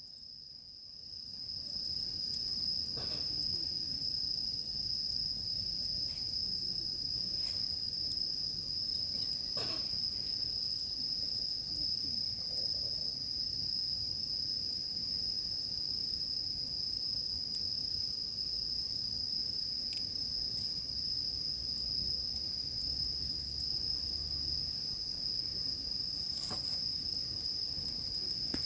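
Insects trilling on one steady high note, with a wood campfire giving a few sharp crackles and snaps now and then over a low, even rush.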